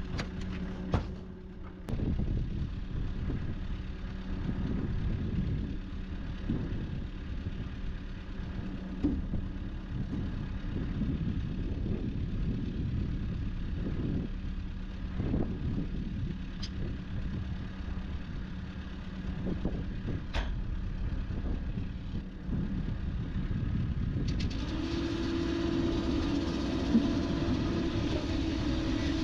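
Cat 308 excavator's diesel engine running steadily in freezing cold, with a few sharp knocks along the way. About 25 seconds in the sound steps up, a higher steady tone and more hiss joining in.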